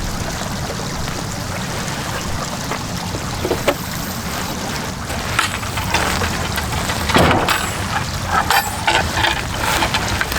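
Strong gusty wind rumbling over the microphone. From about halfway through, a run of sharp knocks and rattles joins it.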